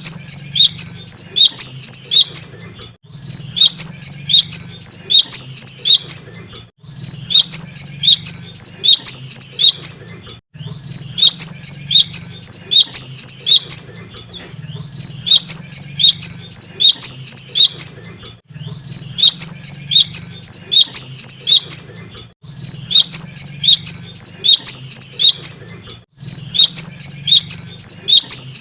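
Cinereous tit (gelatik batu) singing energetically: repeated bouts of about three seconds of rapid, high, sharp notes, each bout followed by a short pause, about eight bouts in all.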